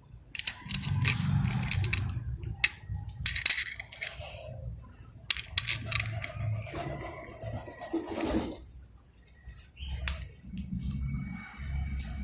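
Small toys being handled and set down on a surface: scattered sharp clicks and knocks with soft rustling in between.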